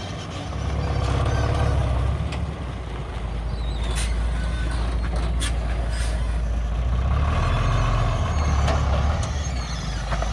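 Heavy diesel earthmoving machinery running with a deep rumble, the engine swelling under load twice, with a few sharp metallic clanks in the middle.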